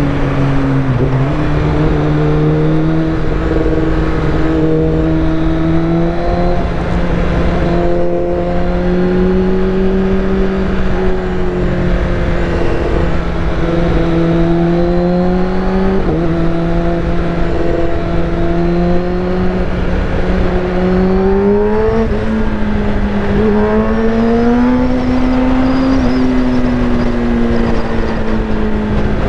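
Kawasaki ZX-10R's inline-four engine running through a full Akrapovic titanium exhaust while riding at moderate revs. The pitch rises and falls gently with the throttle, with a few brief dips and a slow climb and settle near the end.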